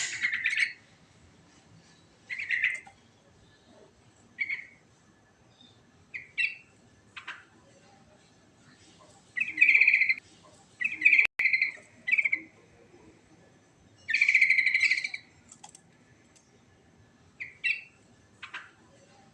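Yellow-vented bulbul (trucukan) singing in short phrases with gaps of a second or so between them, the longest phrases about halfway and three-quarters of the way through. A single sharp click about halfway through.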